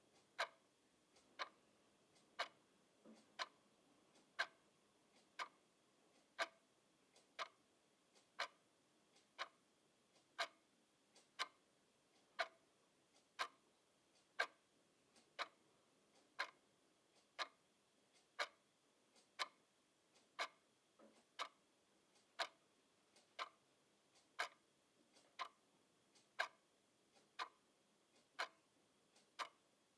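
Clock ticking steadily, sharp even ticks at about one a second.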